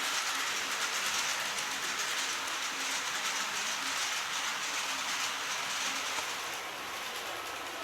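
Model train running on its track: a steady rushing rolling noise from the wheels and motor, easing slightly near the end.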